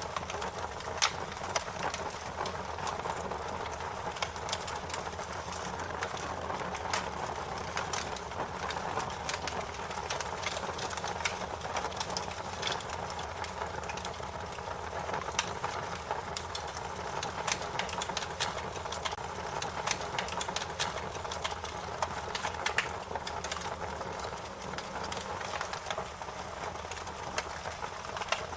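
Wood fire crackling: irregular sharp pops and snaps, several a second, over a steady hiss of burning.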